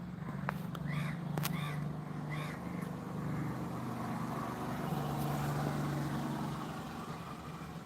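A crow cawing three times in the first few seconds, over a steady low hum.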